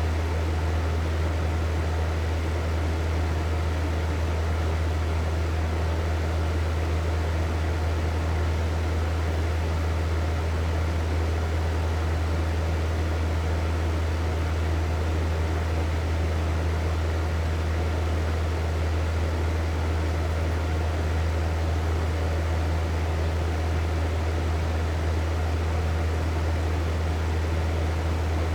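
Hair dryer running steadily: a continuous rush of blown air over a low, even motor hum, with no change in speed.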